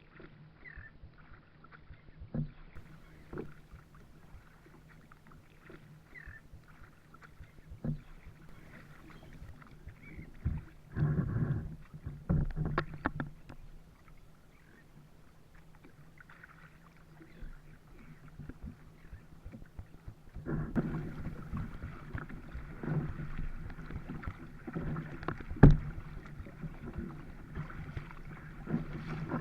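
Perception Sea Lion sea kayak being paddled: paddle strokes and water splashing against the hull, with occasional sharp knocks. The water noise gets busier about two-thirds of the way through, and one loud knock comes a few seconds later.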